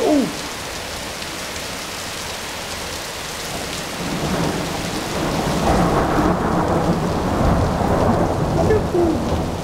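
Steady heavy rain pouring, with a roll of thunder that builds from about four seconds in and rumbles loudest near the end. A short, loud falling tone sounds at the very start.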